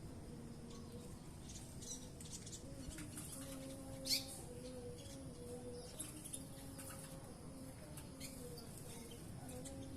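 Caged birds in an aviary: scattered short high chirps, the sharpest about four seconds in, over a low cooing repeated in short steady notes.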